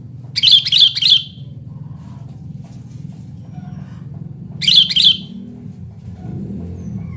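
Sooty-headed bulbul calling: two loud bursts of three quick, bubbly notes, about four seconds apart, over a steady low hum.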